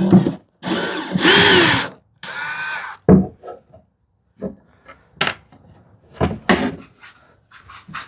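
Cordless drill-driver running in two short spurts, the first about a second and a half long, speeding up and then slowing. It is backing out a screw to remove a misaligned shelf support. After it come a few knocks and clicks of wood being handled.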